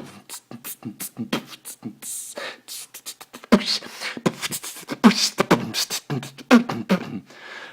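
A man beatboxing solo: rapid mouth-made kick, snare and hi-hat sounds in a quick rhythm, with a short break partway through before a busier, louder stretch. Heard through a smartphone microphone.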